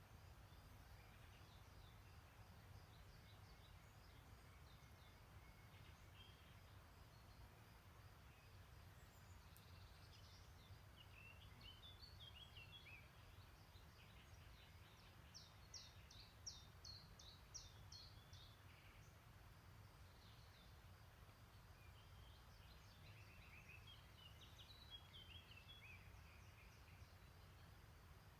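Faint songbirds singing in short runs of quick high notes, three bursts a few seconds apart with the middle one loudest, over a low steady rumble.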